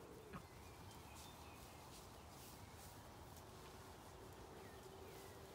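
Near silence: quiet outdoor background with a few faint, distant bird calls.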